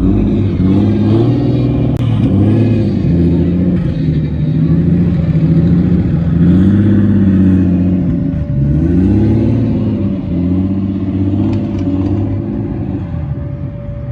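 Car engine being revved several times, its pitch rising and falling with each blip of the throttle over a loud exhaust note.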